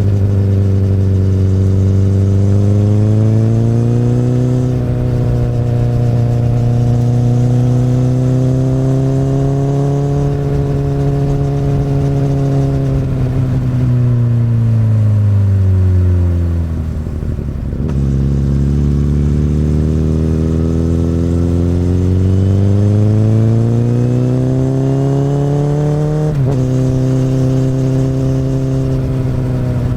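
Honda CBR1000RR's inline-four engine through an Akrapovic exhaust, pulling under way. The revs hold, then fall away slowly as the throttle is eased until the note drops low a little past halfway. The pitch then jumps back up and climbs steadily, until a sudden drop near the end as it shifts up a gear.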